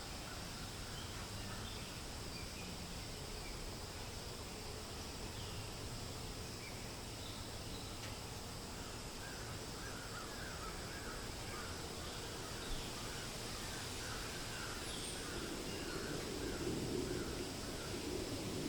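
Steady wind hiss through forest, with scattered bird chirps and, from about ten seconds in, a bird repeating a short call roughly twice a second for several seconds. The wind swells near the end.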